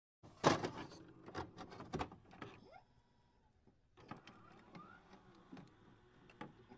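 Faint electronic intro sound effects: scattered sharp clicks, the loudest about half a second in and a quick cluster a second or so later, with a few short rising whirs in between.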